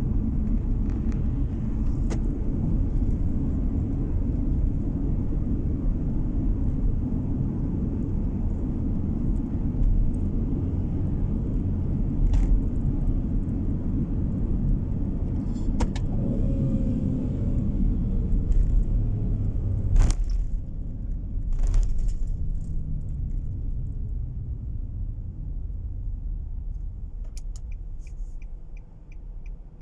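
Steady road and engine rumble heard inside a moving car, with a few sharp clicks or knocks. The rumble eases off over the last several seconds as the car slows, and a regular ticking starts near the end.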